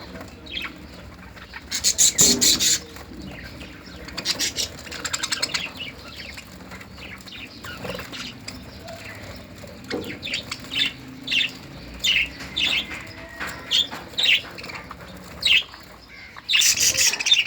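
Australian parrots calling with short, repeated chirps and squawks. The loudest parts are quick runs of calls about two seconds in and again near the end.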